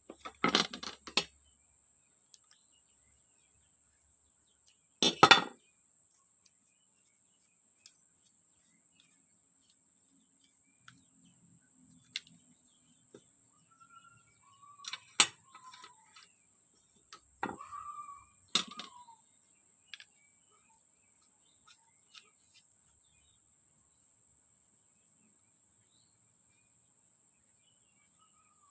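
Sporadic clicks and knocks of small parts and tools being handled, with a louder knock about five seconds in and a flurry of clicks and short squeaks a little past the middle. A faint steady high-pitched tone runs underneath.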